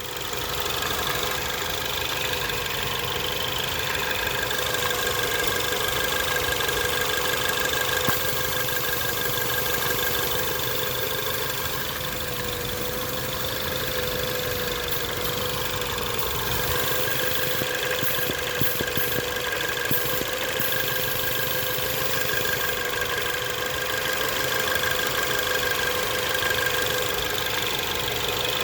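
Ford Focus ST's 2.0-litre EcoBoost turbocharged four-cylinder idling steadily, with a constant whine over it, which the owner suspects comes from a vacuum leak.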